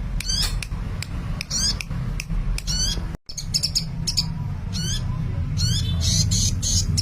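Sunbird song: bursts of rapid, high-pitched chirps and short sweeping trills, repeated in quick clusters over a steady low hum.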